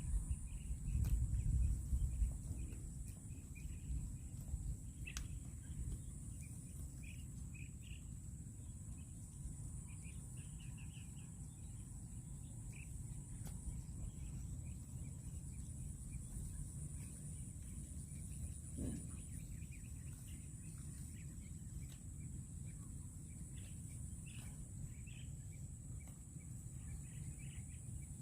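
Outdoor rural ambience: a steady high insect drone and scattered bird chirps over a low rumble, which is louder for the first couple of seconds.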